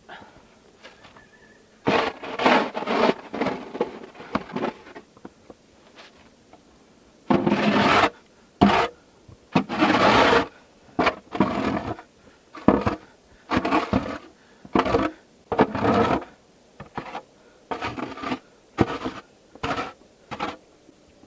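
Snow shovel scraping and scooping through deep snow in a run of repeated strokes, each under a second or so, with short pauses between them, starting a couple of seconds in.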